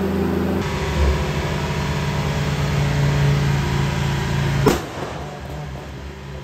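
Perodua Myvi's engine running at a steady speed, with one sharp crack a little under five seconds in, after which it runs more quietly.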